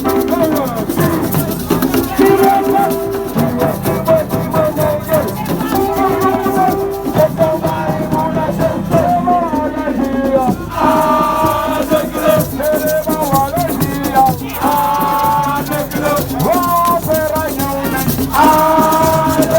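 Voices singing, with shaken rattles keeping a steady beat.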